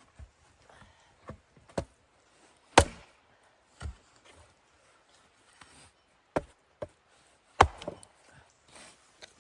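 Wood being chopped: about half a dozen sharp strikes at irregular intervals, the two loudest about three seconds in and just before eight seconds in.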